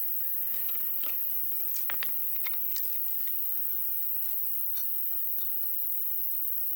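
Wood campfire crackling, with scattered sharp pops that are thickest in the first few seconds, over a steady high insect trill.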